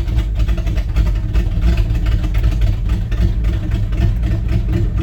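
Old Dodge Power Wagon pickup's carbureted engine running steadily on a cold start, still warming up as the manual choke is eased back in.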